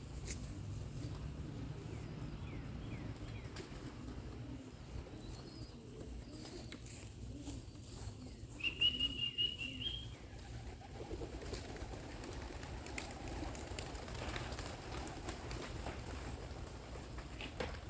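Pigeons cooing softly at a loft. A single higher, clear chirping call comes about nine seconds in.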